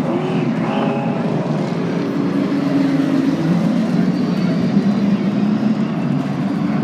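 Several race trucks' engines running at speed around the oval track, a steady drone.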